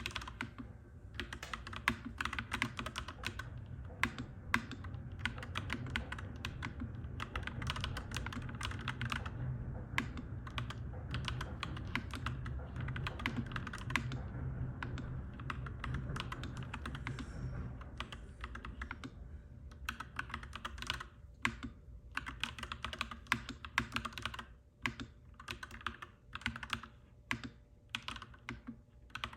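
Clacky mechanical keyboard being typed on steadily, fast runs of key clicks with a few short pauses in the later part. A low rumble sits underneath and fades away about two-thirds of the way through.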